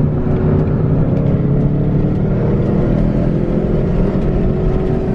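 Car driving along at steady speed, its engine and road noise heard from inside the cabin as a loud, even rumble.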